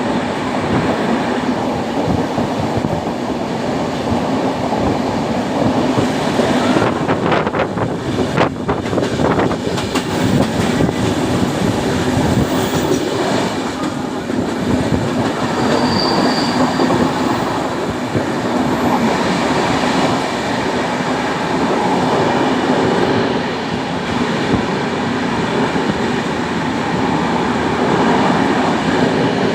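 Indian Railways passenger train running along the track: a steady rumble and rattle of wheels on rails, with a quick run of clicks about seven to nine seconds in and a brief high squeal about sixteen seconds in.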